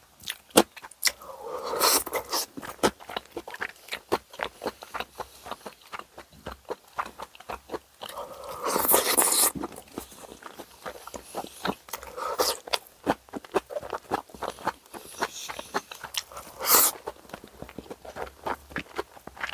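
Close-up eating sounds of boiled pork bossam being chewed, with constant wet mouth clicks and smacks. Four louder crunchy bites come through: about two seconds in, around the middle, and twice near the end.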